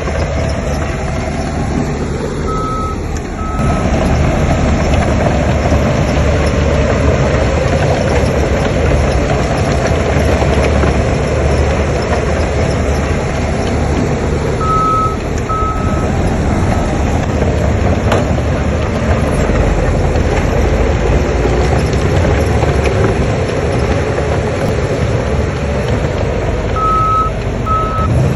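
Heavy earthmoving machinery working, its engine running steadily under load. A reversing alarm sounds a pair of beeps three times: near the start, in the middle and near the end.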